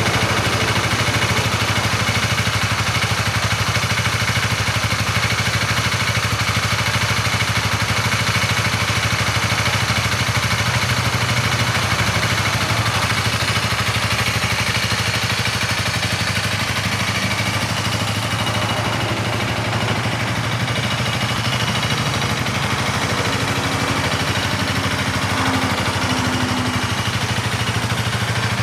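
A 2021 Honda Rebel 300's single-cylinder engine idling steadily through its stock exhaust.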